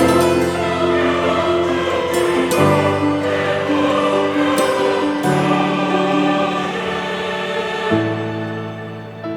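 Background music with a choir singing long sustained chords.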